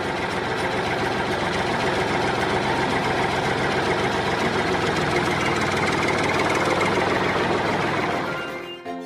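A motor engine running steadily with a fast, even rattle, fading out just before the end.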